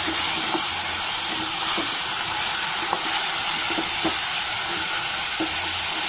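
Chickpeas and masala sizzling in a hot nonstick pan with a steady hiss, as a plastic spatula stirs them, giving a few brief scrapes and knocks against the pan.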